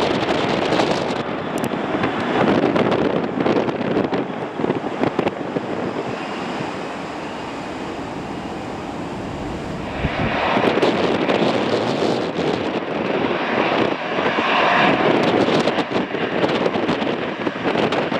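Jet airliner engines running, with a steady roar that eases for a few seconds and then grows louder again about ten seconds in, with a faint whine on top. Wind buffets the microphone.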